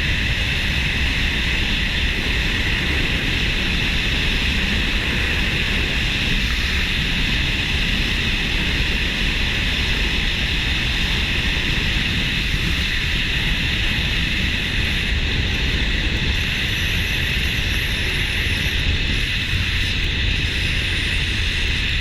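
Steady wind rushing over the microphone with a low rumble underneath, the sound of a motorcycle moving at speed.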